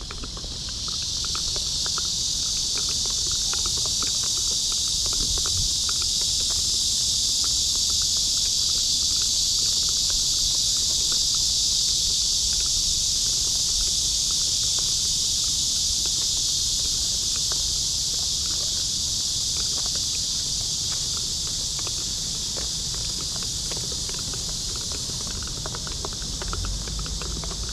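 A chorus of cicadas: a loud, steady, high shrill hiss that swells up about a second in and eases slightly near the end.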